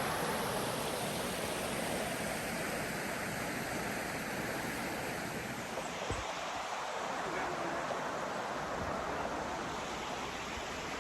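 Stream water rushing steadily, with a single light knock about six seconds in.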